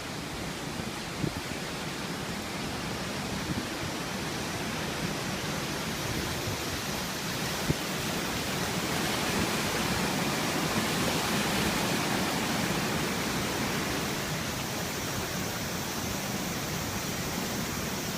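Rain-swollen river in flood after a typhoon, its fast water rushing steadily; the rush grows a little louder about halfway through.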